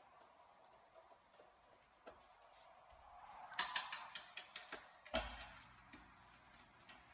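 Light clicks and taps of small parts and hand tools being handled during bench work on a portable power station. A quick run of clicks comes about three and a half seconds in, then a single louder knock about five seconds in.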